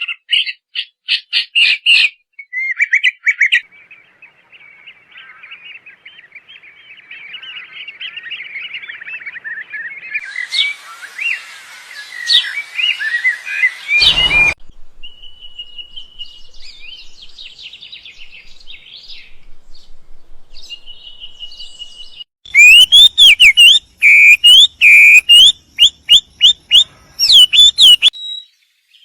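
Songbirds of several different species chirping and singing, one recording after another, each changing abruptly to the next. There are quick chirps at first, then a long stretch of fast twittering, and near the end a run of loud, sharp repeated chirps.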